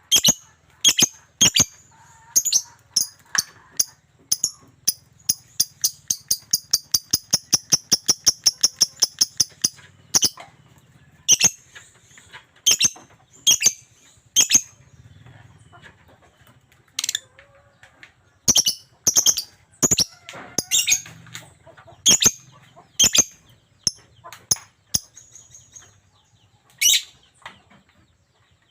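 Lovebird calling loudly and persistently with sharp, shrill chirps. It gives a long run of rapid chirps, about six a second, lasting some six seconds, then goes on with single piercing calls a second or two apart.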